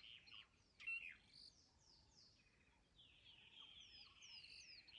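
Faint wild birds calling: many short, high chirps that fall in pitch, with one louder call about a second in.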